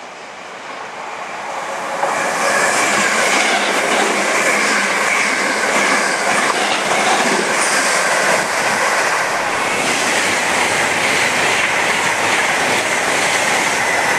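Electric multiple unit passing close by along the platform: the sound grows louder over the first two seconds, then holds as a steady loud run of wheel and rail noise with repeated clicking over the rail joints.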